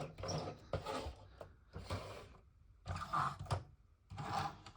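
Plastic DX Grand Liner toy train cars being handled and moved about, making about half a dozen short clacks and scrapes.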